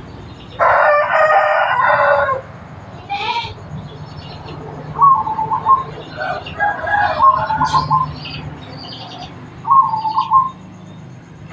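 A rooster crows once, loudly, for nearly two seconds near the start. Then a zebra dove (perkutut) gives short cooing phrases three times, with faint chirps of small birds between them.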